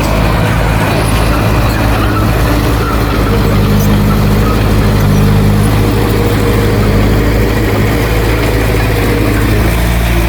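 Heavy diesel engine of earthmoving machinery running steadily, its note growing stronger for a few seconds midway.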